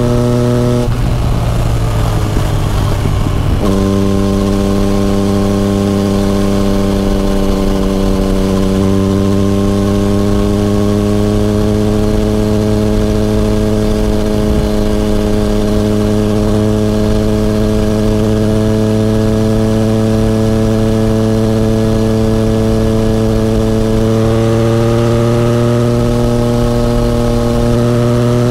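A Yamaha FZ-09's 847 cc inline three-cylinder engine running under way at steady revs. About a second in, the note breaks and falls away, then returns at a lower, steady pitch nearly four seconds in. It rises a little again near the end.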